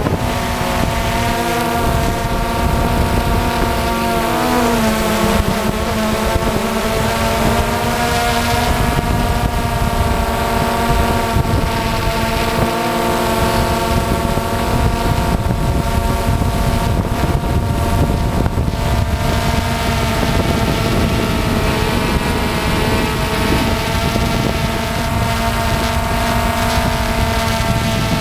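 DJI Phantom FC40 quadcopter's motors and propellers in flight: a steady multi-tone whine that briefly dips in pitch a few seconds in, with wind rushing over the microphone.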